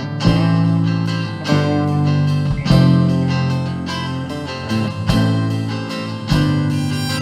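Guitar strumming chords, with a strong strum about every second and a quarter.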